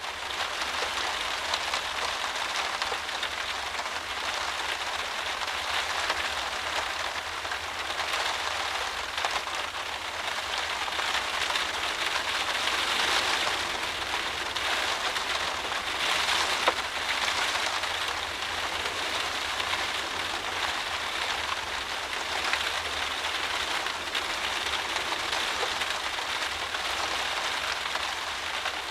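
Heavy driving rain beating against a windowpane, heard from indoors: a dense, steady patter of drops on the glass that swells a little about halfway through.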